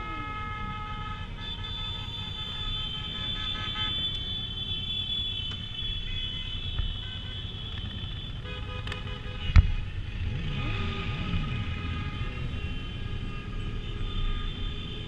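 Several vehicle horns sounding in long held blasts, overlapping, over the steady low running of engines in slow traffic. A single sharp knock about nine and a half seconds in.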